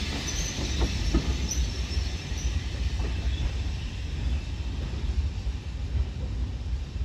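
The rear coaches of a passing train rolling away along the track, with a few wheel clicks in the first second or so; the higher wheel noise fades as the train draws away, over a steady low rumble.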